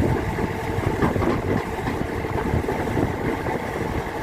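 Kubota DC-93 combine harvester running: a steady engine note with an irregular low rumble underneath.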